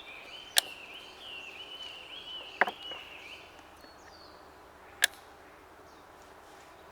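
Three sharp clicks of shogi pieces being set down on the board, about two seconds apart. A high, wavering chirping runs behind them and stops about halfway through.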